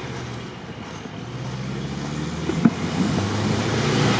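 ZAZ-968M Zaporozhets's air-cooled V4 engine running at a steady speed, growing louder. A single sharp knock comes about two and a half seconds in.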